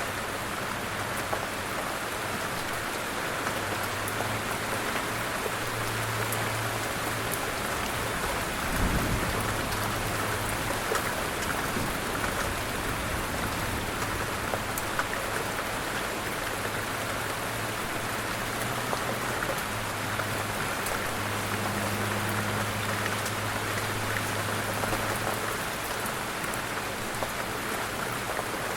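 Light rain falling steadily, with scattered drops ticking on surfaces. About a third of the way in there is a brief low thump, and a faint low hum comes and goes underneath.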